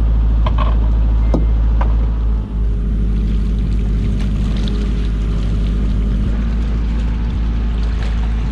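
Fishing boat's engine running steadily, with a few sharp knocks in the first two seconds.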